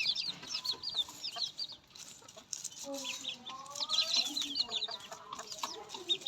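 A flock of farm poultry calling: many quick, high, falling peeps overlapping throughout, with some lower, longer calls in the middle and near the end.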